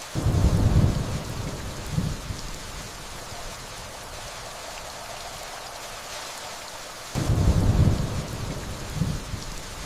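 Steady rainfall with two deep rolls of distant thunder, one right at the start and one about seven seconds in. Each comes in suddenly, swells again a second or so later, and dies away over a couple of seconds.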